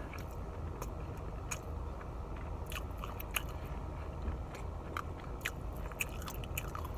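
Close-up mouth sounds of chewing a fried chicken tender with the lips smacking deliberately for mukbang: irregular wet clicks and smacks, a few every second, over a low steady hum.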